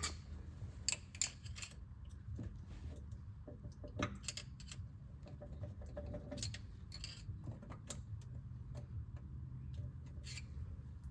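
Scattered light metallic clicks and clinks of parts being handled on an opened-up manual transmission, with a few sharper ones about a second in and around four seconds, over a steady low hum.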